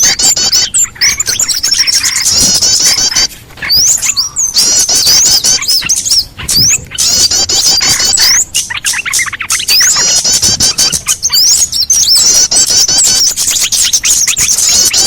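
Bird-lure recording of small songbirds calling: a dense, loud chorus of rapid, high, overlapping chirps and short sweeping notes, played to draw wild small birds in.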